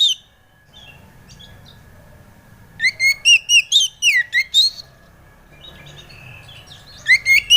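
Oriental magpie-robin (kacer) singing: bursts of loud, clear whistled notes that slur sharply up and down. One phrase of about eight notes comes about three seconds in and lasts nearly two seconds, and another begins near the end, with a few soft notes in between.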